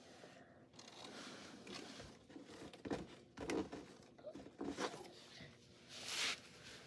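Adhesive tape being pulled off the roll and torn, with light handling clicks; the loudest strip is pulled off in a longer rasp about six seconds in.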